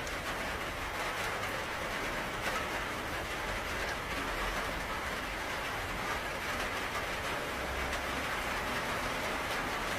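Steady heavy rain, a dense even hiss, with a low rumble running underneath.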